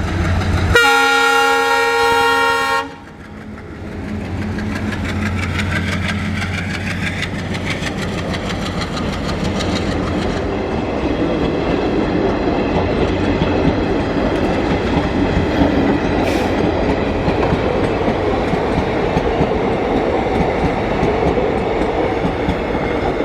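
ALCO diesel locomotive sounding its horn for about two seconds, starting about a second in, over the steady hum of its engine. After the horn, the train's rumble builds, with the clickety-clack of wheels over rail joints.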